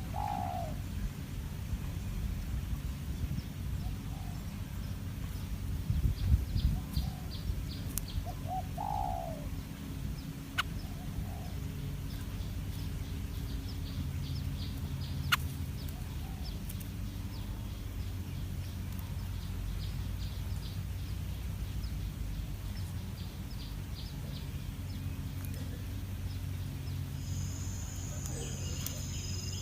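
Wild birds calling: a few short, falling calls over a low steady background hum, with a rapid high ticking through much of it and a few sharp clicks. A steady high insect trill starts near the end.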